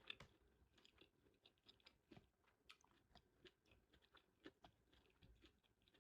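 Faint chewing of food, heard as soft, irregular small clicks and smacks.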